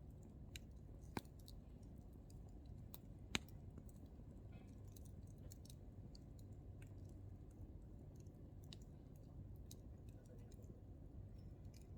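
Hardwood firewood burning in an open campfire: sparse, faint crackles over a low steady rumble of flame, with two sharper pops, one just over a second in and a louder one a few seconds in.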